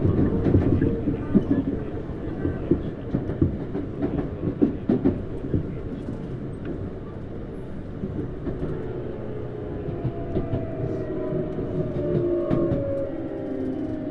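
Tokyu Series 9000 electric train running, heard from inside a motor car: wheels rumbling and clicking over the rails. From about ten seconds in, the whine of its Hitachi GTO-VVVF inverter comes in and falls slowly in pitch as the train slows.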